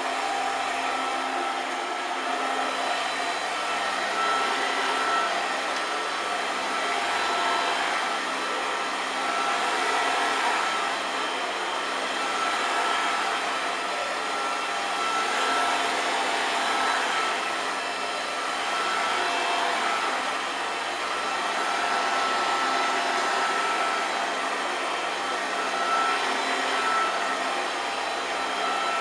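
1993 Hoover TurboPower 2 Autosense U2464 upright vacuum cleaner running continuously, a motor hum with a steady high whine, the level swelling and easing gently every few seconds.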